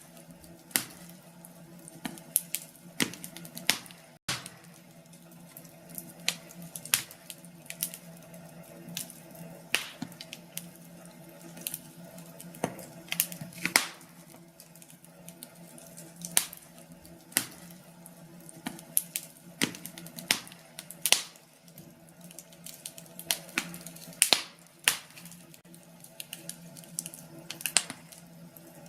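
Fire crackling in a fireplace: irregular sharp pops and snaps, several a second, over a low steady hum. The sound cuts out for a moment about four seconds in.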